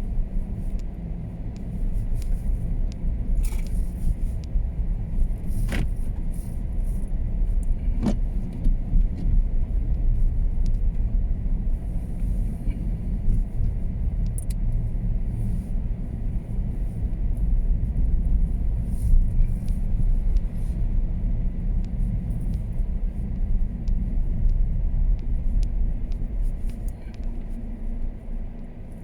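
Car driving on a snowy road: steady low rumble of engine and road noise, with a few sharp clicks about four, six and eight seconds in.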